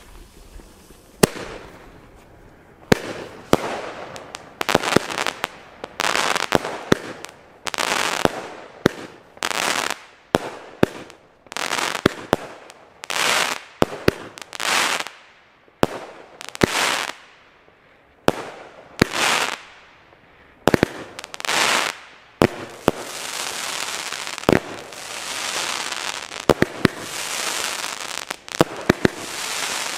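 Consumer firework battery (cake) firing shot after shot, about one shot every second or so: each is a sharp bang followed by a brief hissing crackle of the burst. From about two-thirds of the way in, the shots merge into a denser, nearly continuous crackling with many sharp pops.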